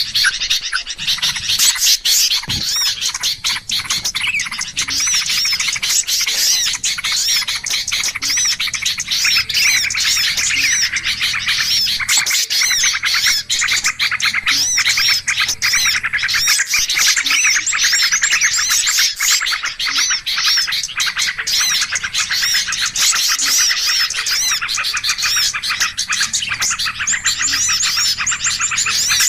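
Dense chorus of many small songbirds chirping and calling over one another without a pause: a noisy bird-lure recording used to draw in small birds.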